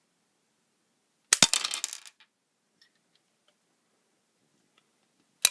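A LEGO brick revolver being shot at a target: one sharp snap about a second in, then a short rattling clatter of plastic LEGO pieces. A second snap comes right at the end.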